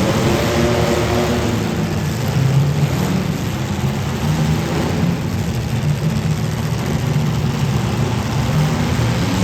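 Demolition derby car engines running and revving, their pitch wavering up and down.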